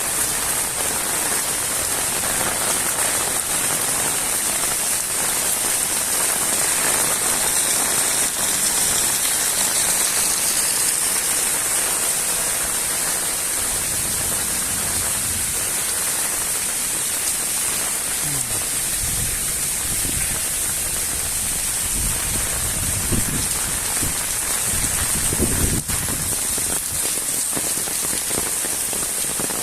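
Steady, fairly heavy rain falling and splashing on surfaces, with a few low rumbles in the second half.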